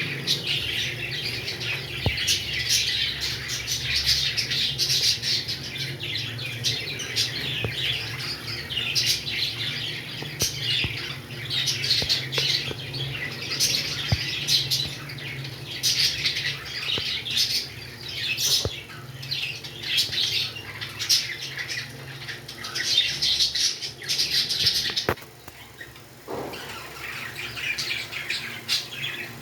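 Pet parrots chirping and squawking in a dense, overlapping chatter of short high calls, with a brief lull near the end.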